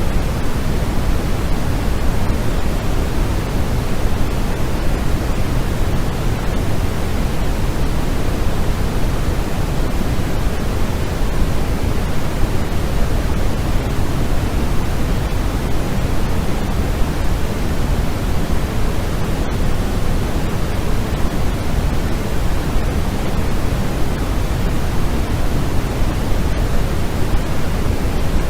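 Steady white noise for sleep: an even, unbroken hiss weighted toward the low end.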